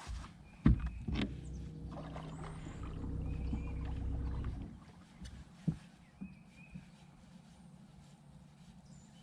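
Knocks on a fishing boat, twice about a second in and once more near the middle, with a low steady mechanical hum for about three and a half seconds in between that stops abruptly.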